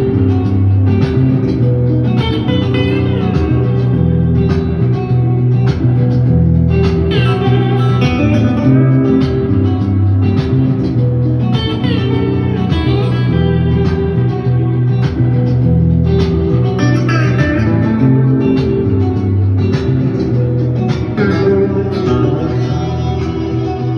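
Two guitars playing an instrumental piece live: a repeating low bass line under a plucked melody whose notes glide in pitch.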